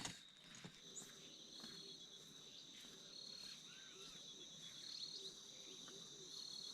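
Faint, steady insect chirring in two high unbroken tones, with faint short chirps beneath it.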